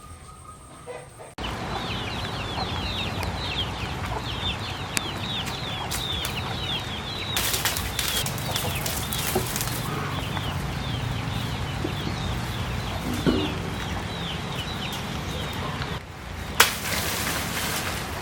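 Chickens: a dense run of short, falling high chirps, several a second, with two bursts of rustling noise that may be wings flapping.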